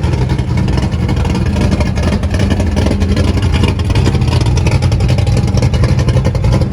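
Classic car engine running steadily at low speed, a low rumble that holds even throughout.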